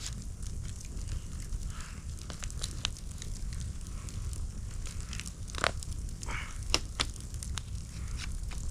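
Wood fire crackling, with scattered pops and a few sharper snaps about two-thirds of the way in, over a low steady rumble.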